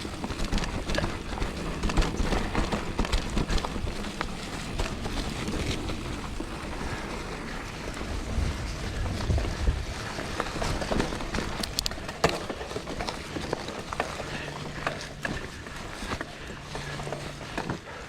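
Mountain bike riding over a dirt trail: tyre noise and a low rumble, with the bike rattling and knocking over bumps many times.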